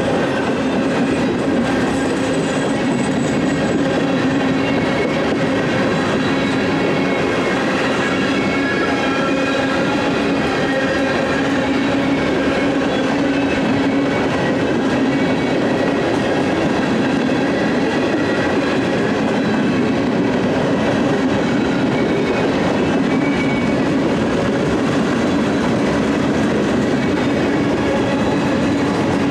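Freight train rolling steadily past, a continuous rumble and clatter of its wheels on the rails.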